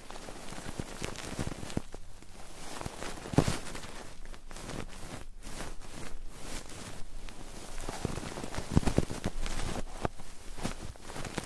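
Close-miked ASMR ear rubbing: hands or tools stroking and scratching across the microphone, an uneven run of rustles and scrapes with louder strokes about three seconds in and near nine seconds in.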